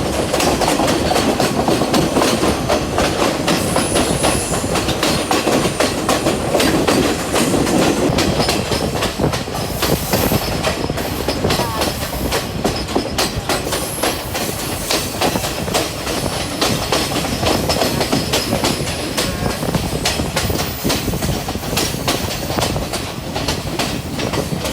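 Passenger train running along the line: a steady rumble and rattle of the carriage, with the wheels clattering over the rail joints again and again.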